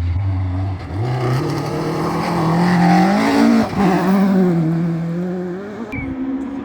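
Rally car engine at full throttle, approaching and passing close by: the engine note climbs, breaks briefly about three and a half seconds in, then drops lower and fades as the car goes away.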